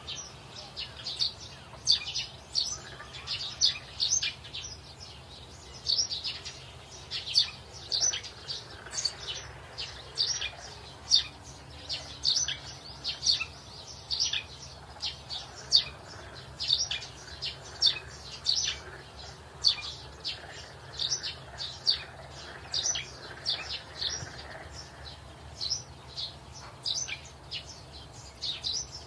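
Small birds chirping, short high notes coming a few times a second.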